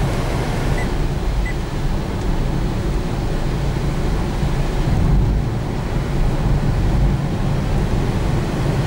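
Torrential rain on a moving car, heard from inside the cabin: a steady, dense rush of rain on the roof and windscreen mixed with tyre and road noise on the flooded motorway.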